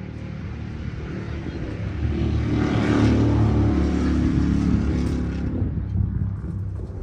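An engine running, growing louder to a peak a few seconds in and then easing off.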